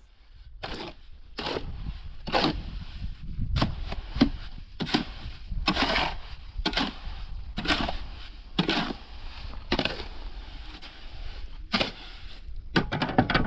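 Footsteps crunching at a walking pace, about one step a second, over a steady low rumble.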